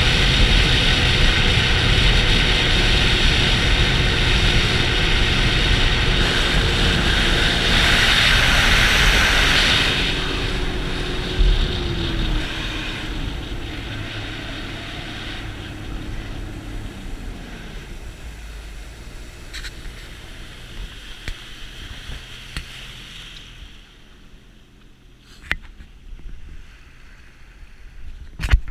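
Sea-Doo GTX 300 jet ski running on the water with a loud hiss over the engine. About twelve seconds in the engine pitch falls as it slows, and the sound fades away over the next ten seconds. A few sharp clicks come near the end.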